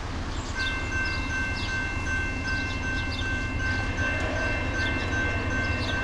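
Distant freight train approaching, heard as a steady low rumble. From about half a second in there is a steady high ringing tone with a faint even pulse, and short high chirps come and go over it.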